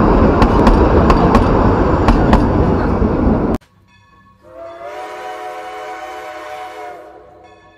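Coaches of the narrow-gauge Kalka-Shimla train rolling past close by: loud rumbling, with the wheels clicking over rail joints a few times a second. The sound cuts off suddenly about three and a half seconds in. A second or so later a quieter, steady horn-like chord holds for about two and a half seconds, then fades.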